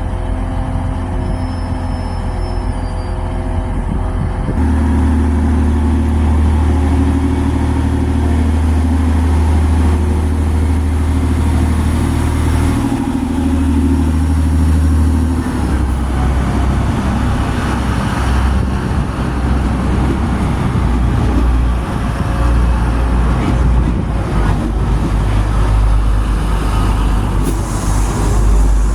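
Diesel multiple unit's engines running. About four seconds in they open up loudly, and the engine note changes in steps as the train pulls away.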